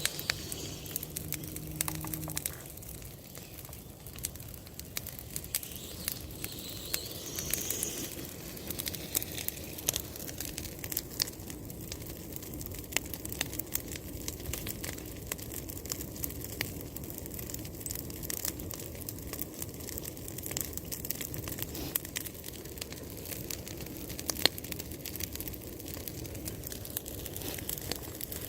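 Bonfire crackling, with many sharp irregular pops over a steady hiss.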